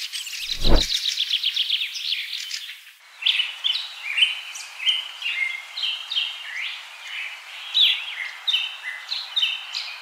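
Birdsong: for the first three seconds a rapid run of short falling chirps, with a low thump about half a second in. After an abrupt change, a busy stream of short whistled notes and chirps from small birds follows.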